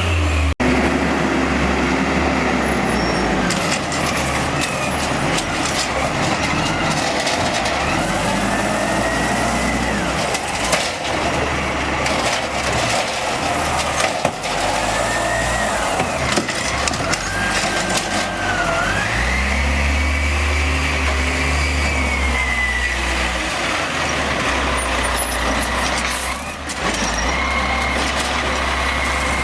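Automated side-load garbage truck running, its engine revving up and down as the hydraulics work, with a whine that rises and falls and a few sharp clanks from the lift arm and cart.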